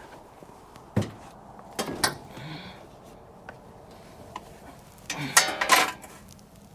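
Metal hand tools and engine parts clinking and knocking: a few sharp knocks in the first two seconds, then a quick rattling run of clicks about five seconds in.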